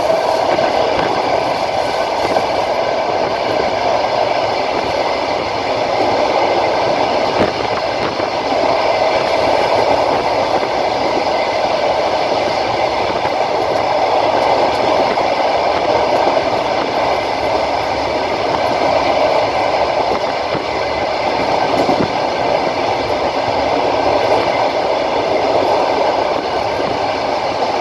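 A moving train heard from a carriage window: steady running noise of wheels on the rails, with a held whine in several steady tones and an occasional faint knock.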